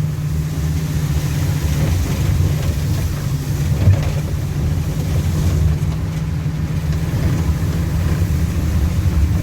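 Low, steady rumble of a car in motion heard from inside the cabin, with a small jolt about four seconds in.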